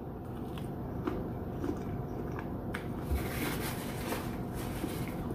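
Close-miked eating: chewing and biting with soft wet mouth sounds and light clicks of a utensil against a plate.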